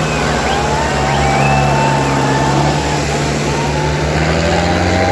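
Diesel engines of two Sonalika tractors running hard and steady under heavy load, pulling against each other in a tractor tug-of-war.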